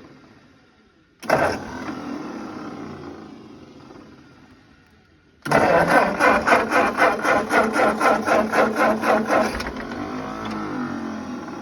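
Ford 8N tractor's electric starter cranking its four-cylinder engine: a short jab about a second in, then about four seconds of cranking with a rhythmic chug of about five compression beats a second that stops without the engine firing. The tractor has sat unused all summer and won't start.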